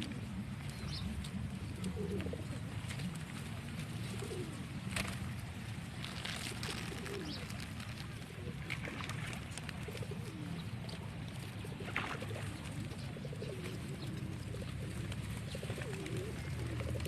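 Pigeons cooing over and over in short, wavering low calls, with a few sharp clicks in between.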